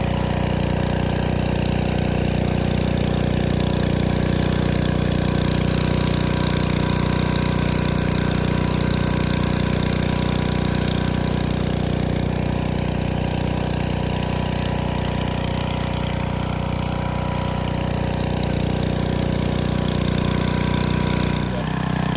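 Pressure washer running steadily, with the hiss of water spraying through the rotary surface cleaner on concrete. Its note dips briefly near the end.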